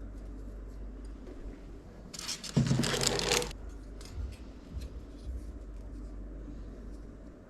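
A scraping, rustling burst lasting just over a second, from parts or packaging being handled during a PC build, with quieter clicks and taps before and after it.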